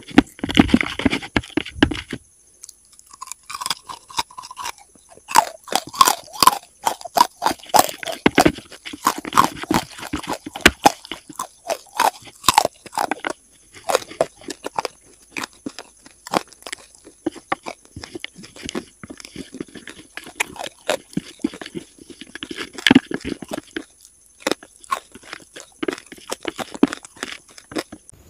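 Close-miked chewing of wet chalk paste: a dense, uneven run of sharp mouth clicks and crunches.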